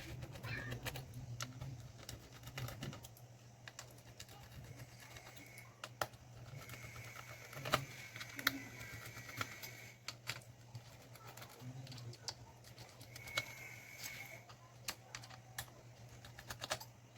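Small clicks and taps of tools and fingers on a laptop's plastic case as it is taken apart, over a low steady hum. A faint high whine comes and goes twice, around the middle and again near the end.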